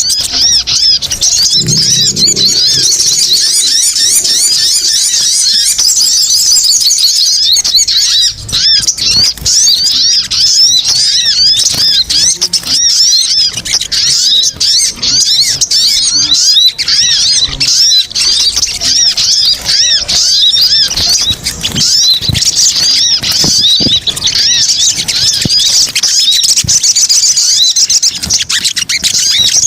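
Bird-lure recording of small birds chirping: a loud, dense, unbroken stream of rapid high-pitched chirps and trills, the male sogon calls used to draw small birds in.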